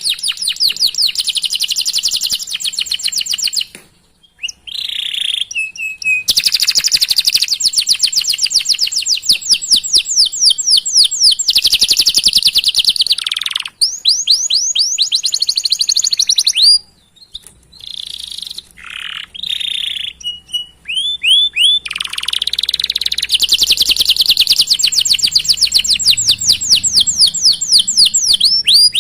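Domestic canary singing a long song of fast rolling trills and repeated chirps, with a few short pauses, the longest about two thirds of the way through.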